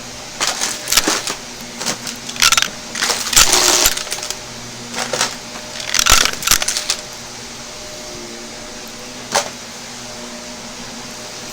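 Shark vacuum cleaner running with a steady hum while it sucks up crunchy debris that rattles and crackles through it in quick clusters for about the first seven seconds. One more click comes about two seconds before the end.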